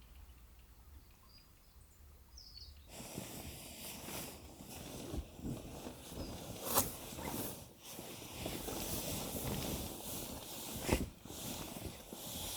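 A low, faint rumble, then about three seconds in close-up rustling and handling noises begin, with a couple of sharp clicks among them.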